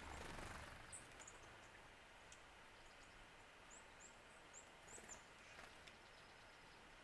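Faint, very high, short chirps of small songbirds, a string of them about halfway through, over a steady outdoor hiss, with a brief rush of noise at the very start.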